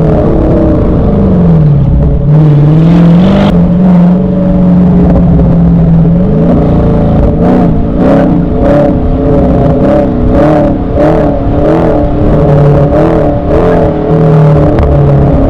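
Muscle car V8 engine running loud: its pitch drops early on and then holds steady for a few seconds. After that it revs in a string of quick, uneven blips.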